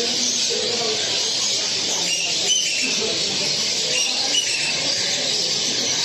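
A dense, steady chorus of many caged songbirds chirping at once, with people's chatter underneath.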